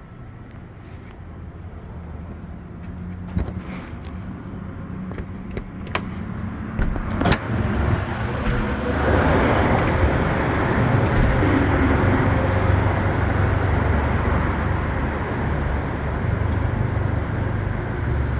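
Road traffic noise swelling over the first half, then holding steady, with three sharp knocks a few seconds in.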